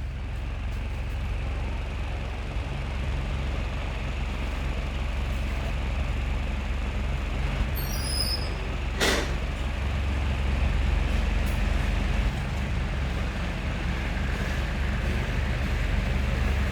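Restored mini ceiling fan running at high speed: a steady motor hum and rush of air, with a single sharp click about nine seconds in.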